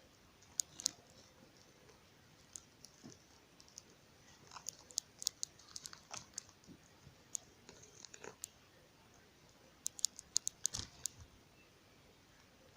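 Irregular small sharp clicks and light crunching in scattered clusters, with the densest run near the end.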